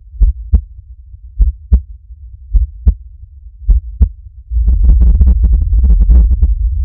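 Heartbeat sound effect: paired low thumps, lub-dub, about once a second. About two-thirds of the way in, a loud low rumble with rapid crackling takes over.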